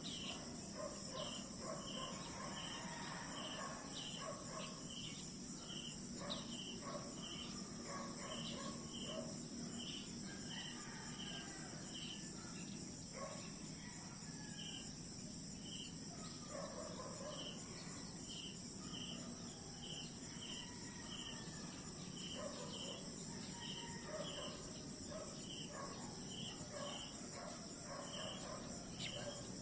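Night-time-style insect chorus: a steady high shrill hum with a separate chirp repeating about twice a second, and scattered softer calls lower down.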